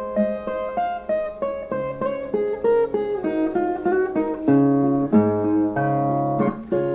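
Brazilian viola (a steel-strung folk guitar) playing an instrumental interlude: a picked melody of quick notes over bass notes, between sung verses.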